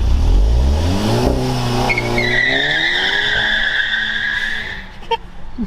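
A car engine revving up, its pitch rising, then tyres squealing with a steady high screech for about two and a half seconds before it fades.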